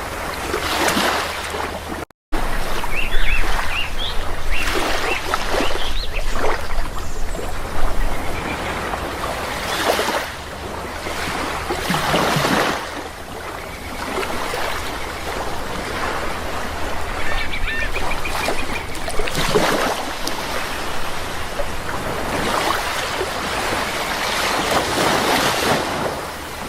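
Sea waves washing ashore in repeated swells every few seconds, with bird calls over the surf in two spells, a few seconds in and again past the middle. The sound cuts out completely for a moment about two seconds in.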